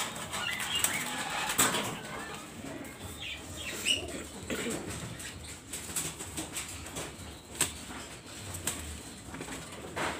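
Doves flapping their wings in short bursts, with scattered sharp clicks and scuffles.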